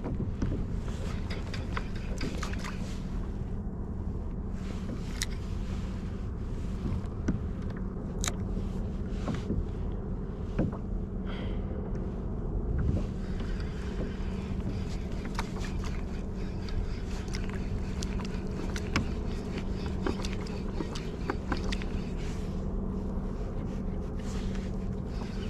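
Kayak on the sea: a steady low hum and water noise, with scattered small clicks and knocks from gear handled on the boat.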